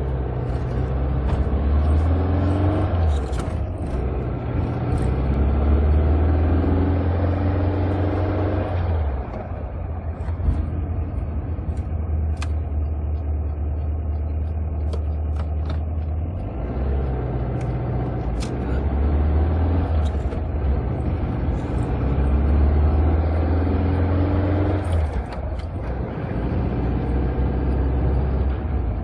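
Old car's engine being revved and held up for several seconds, dropping back to a lower idle about nine seconds in, then revved up again and held before settling near the end.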